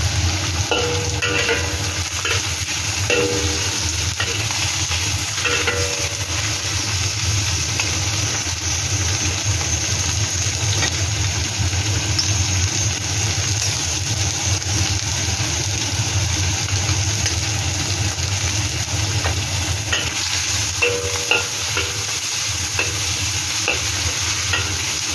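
Shrimp and sliced garlic frying in hot oil in a black wok: a steady sizzle, with a few short metallic scrapes of a spatula against the wok.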